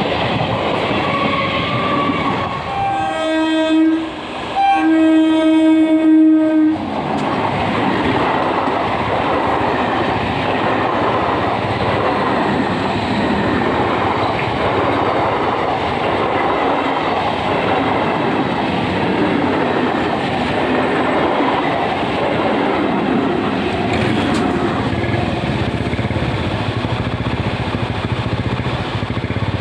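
Electric multiple-unit local train sounding its horn twice, a short blast then a longer one, and then running past with a steady rumble and clatter of wheels over the rails.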